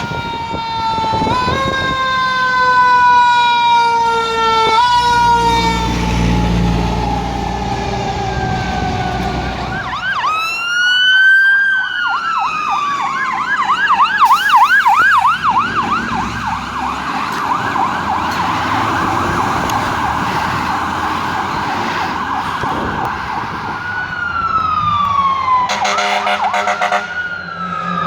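Fire truck siren sounding as it passes: a long falling wail, then a rise and fall, then a fast warbling yelp for about ten seconds, then another falling wail. There is a low engine rumble under it about six seconds in.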